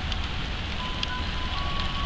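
Diesel locomotives rumbling low as they creep in at walking pace, with thin, steady, high squealing tones from steel wheels on the curved track and a few light clicks.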